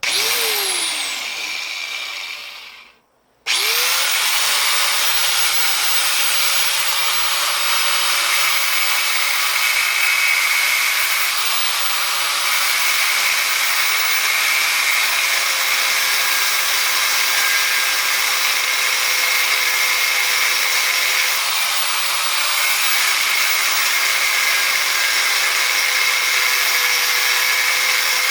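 Angle grinder run briefly, then winding down in a falling whine. About three and a half seconds in it starts again with a rising whine and runs steadily, grinding into a scrap electric motor's casing with a dense hissing noise.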